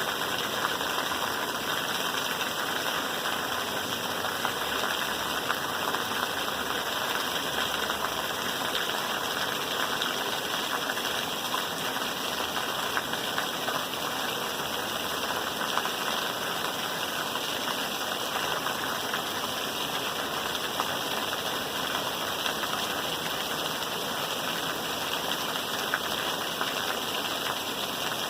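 Steady rain falling, an even hiss dotted with many small drop clicks.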